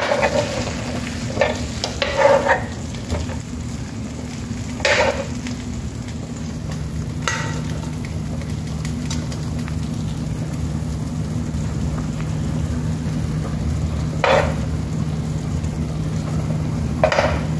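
Chicken satay skewers sizzling steadily in a pan over a low hum, with a handful of short scraping clicks from metal tongs.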